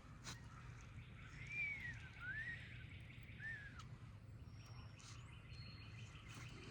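A bird calling three times, each a short whistle that rises and falls, over steady low outdoor background noise, followed by a faint rapid series of ticks.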